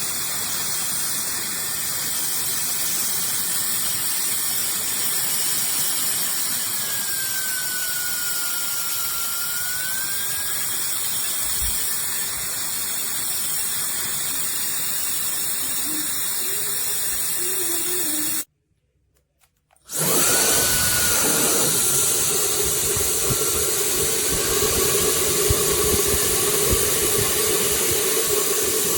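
SUPGALIY 1500 W mini ionic hair dryer blowing steadily. About two-thirds of the way through it cuts out for a second or so, then starts again a little louder with a steady hum.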